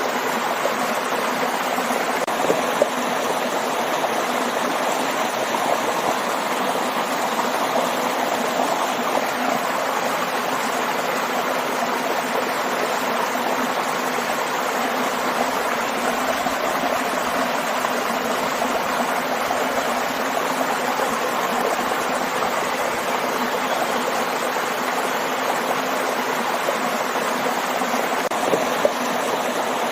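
Waterfall and stream, a steady rush of running water.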